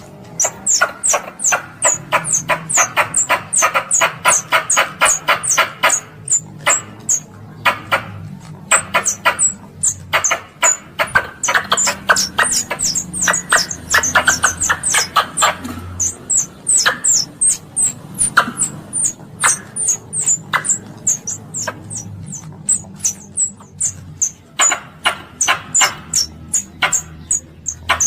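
Squirrel calling: a long run of sharp, high chirps, each dropping in pitch, about three a second. Between them come stretches of faster, lower chattering clicks.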